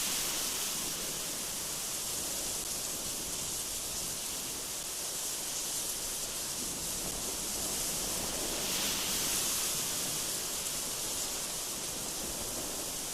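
Strong, gusty wind blowing: a steady high hiss that swells with a gust at the start and again about nine seconds in.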